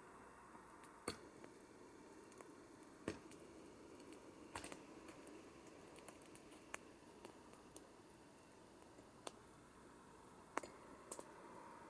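Campfire crackling faintly: irregular sharp pops and snaps, about a dozen, over a low steady hiss.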